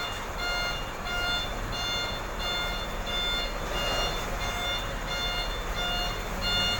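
Vehicle reversing alarm beeping in a steady on-off rhythm, the vehicle backing up, over a low steady engine rumble.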